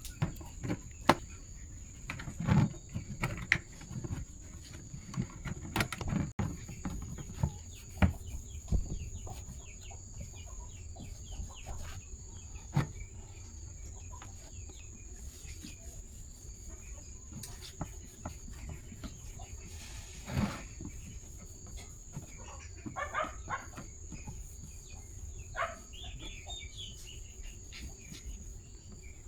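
Scattered sharp clicks and knocks, thickest in the first ten seconds, over a steady high insect drone; a few short chicken clucks come in later.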